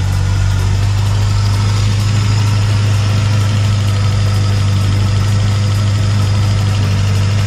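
Suzuki Swift GTi's rebuilt 1.3-litre twin-cam four-cylinder engine idling steadily, just started for the first time after the rebuild.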